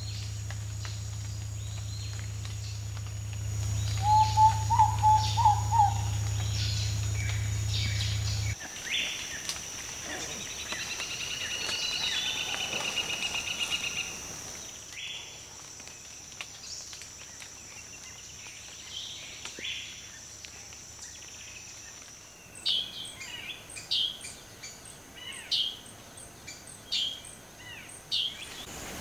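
A Spotted Antpitta singing a short run of hollow whistled notes that rise slightly in pitch, over a low steady rumble. Then a buzzy trill, and near the end a series of sharp high calls about one every second or so, over a steady high insect drone.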